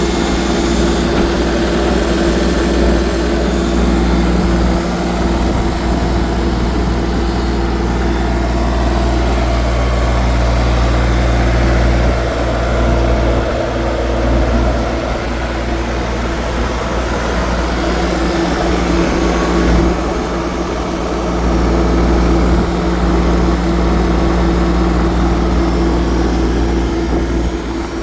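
New Holland TC290 compact tractor's engine running at a steady speed, a constant low drone.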